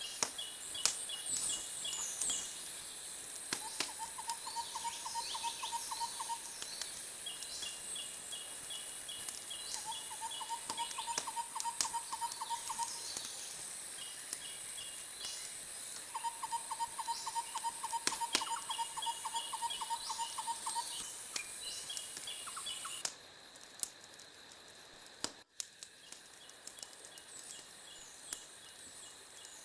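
Wood fire crackling with scattered sharp pops, layered with repeated rapid trilling calls that come every few seconds. A steady high hiss cuts off suddenly about two-thirds of the way through.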